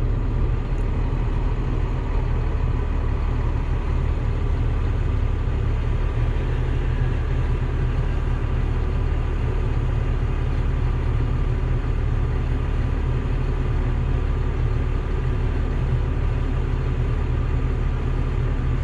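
Diesel tractor engine idling steadily, a deep even drone with no change in speed.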